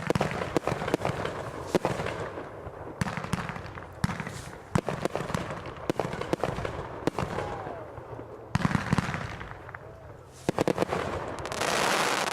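Consumer fireworks going off: an irregular series of sharp bangs, some in quick clusters, then a dense burst of crackling near the end.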